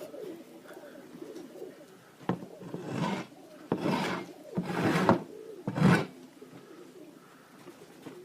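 Pigeons cooing close by, with five or six short, rough rustling bursts in the middle of the stretch, the loudest two near the end of them.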